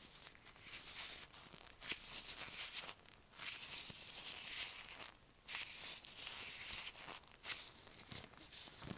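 Latex-gloved fingers rubbing and tapping directly on an earphone microphone. It makes close, sticky crackling in stretches of about half a second to a second, with a few sharp taps between.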